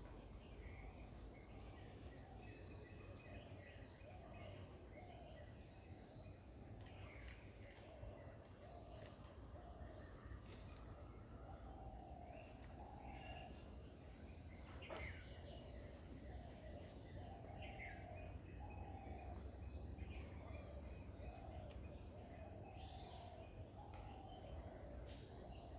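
Faint garden ambience: birds calling, one repeating a short low call about once a second among scattered higher chirps, over a steady high-pitched insect drone.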